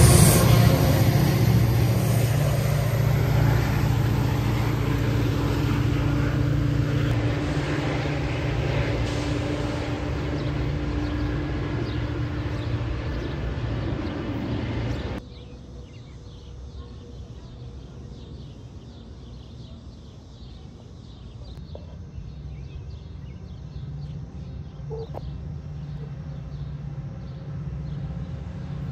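Metra diesel commuter train passing close and pulling away, its locomotive's low engine drone fading over about fifteen seconds. The sound then drops abruptly to a quieter scene in which a distant approaching train slowly grows louder.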